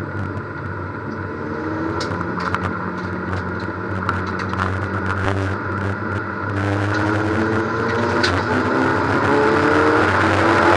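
A Ford Puma race car's four-cylinder engine, heard from inside its stripped-out, roll-caged cabin, pulls hard under acceleration. Its pitch climbs in several rising sweeps and it grows gradually louder, with a few light clicks and rattles.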